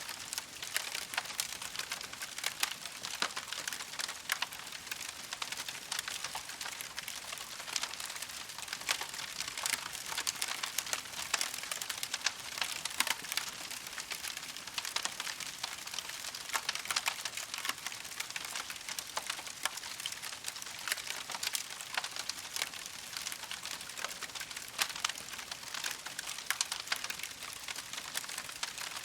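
Wood campfire crackling steadily: a dense, unbroken run of small pops and snaps over a soft hiss.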